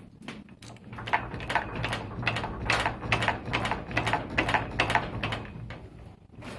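Rapid, irregular metallic knocking and clicking, about three to four knocks a second, as the elevator counterweight is rocked and its worn guide shoe (bashmak) knocks against the guide rail, with a steady low hum underneath. The knock comes from worn shoe liners, with the lower shoe loosest.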